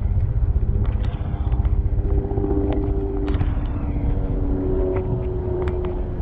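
Street traffic heard from a moving bicycle: wind rumbling on the microphone, with the drone of a passing motor vehicle that slowly sinks in pitch, and scattered light clicks and rattles.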